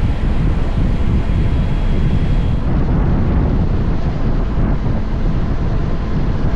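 Wind rushing and buffeting over the microphone of a moving Honda X-ADV, its 745 cc parallel-twin engine and road noise running steadily underneath.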